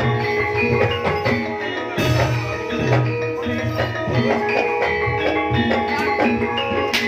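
Live East Javanese jaranan gamelan music: bronze metallophones and gongs ringing over steady kendang drum beats, with cymbal-like crashes about two seconds in and near the end.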